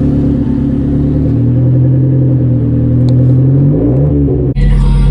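Big-turbo Hyundai Genesis engine running at a steady low drone, with the revs rising briefly near the end before the sound cuts off abruptly.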